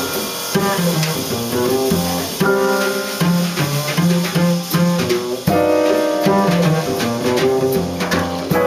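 Small jazz combo playing live: plucked upright double bass notes moving steadily underneath, with piano chords and a drum kit's cymbals and drums ticking along on top.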